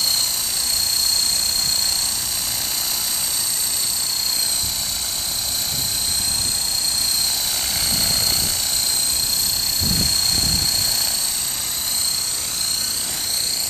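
Esky Honey Bee King 2 RC helicopter in flight: its 3900kv brushless motor and gears give a steady high-pitched whine over the hiss of the rotors. The whine's pitch slides up and down near the end as it manoeuvres, with a few low rumbles in the middle.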